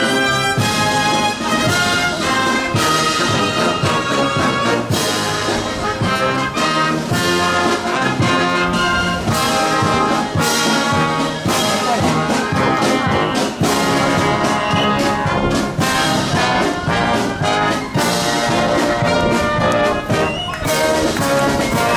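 Marching brass band playing, trumpets and trombones over a steady beat.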